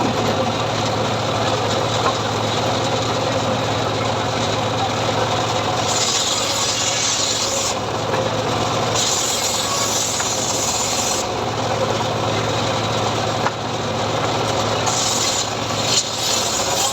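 Engine-driven saw running steadily while it cuts sengon wood, with a harsh rasping hiss that rises and falls as the blade bites in several times.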